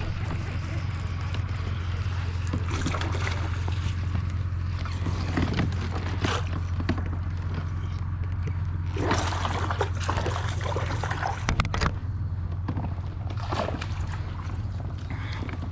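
Water sloshing and splashing irregularly at a kayak, over a steady low hum.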